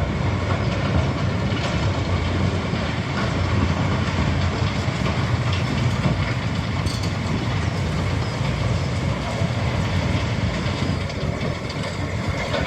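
Heavy diesel construction machinery running steadily, a continuous low engine rumble with a noisy clatter over it.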